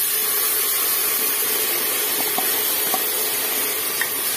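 Wet, freshly washed moong dal and rice sizzling in hot ghee in a steel pressure cooker: a loud, steady frying hiss that starts suddenly as the grains hit the fat. A few light ticks of the stirring spoon come through midway.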